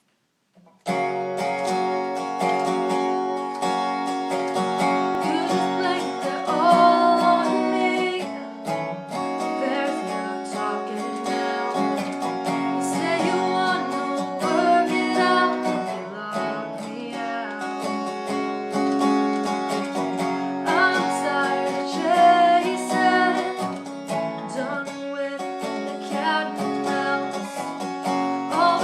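Song played on acoustic guitar, strummed and picked, starting about a second in, with a voice singing over it.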